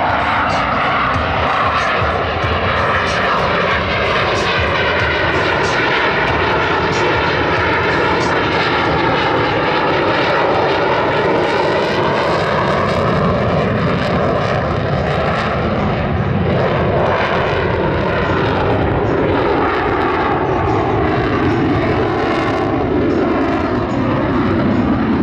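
Blue Angels F/A-18 Hornet jets flying a low pass, their engine noise loud and steady throughout. The tone sweeps slowly down and up in pitch as the jets pass.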